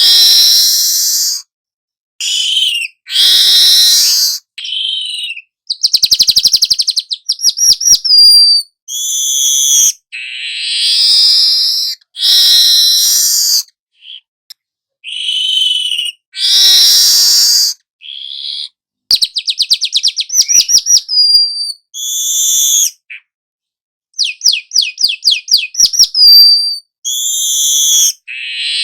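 Young manyar (weaver bird) singing on and on: a string of loud, high phrases with short gaps between them, several of them fast trills.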